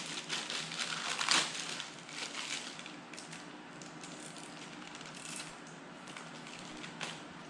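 Hands handling the circular saw's parts and packaging: several clattering knocks in the first second and a half, then lighter rustling and crinkling with a couple of small clicks.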